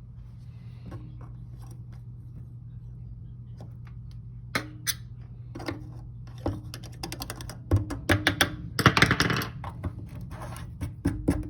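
Small hard plastic clicks and rattles as debris, broken plastic fork prongs, is worked out of a clogged dishwasher drain. They start sparse, then come thick and fast near the end, over a steady low hum.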